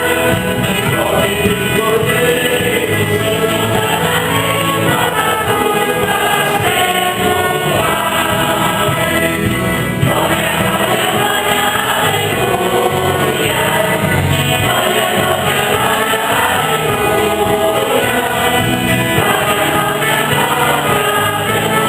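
A church choir singing a hymn with instrumental accompaniment, steady and loud.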